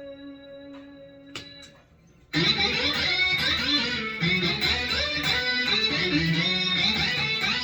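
Electric guitar played through a Boss SY-200 synth pedal. A held synth note dies away with a few pick or string clicks, then about two seconds in a loud run of fast synth-guitar notes begins.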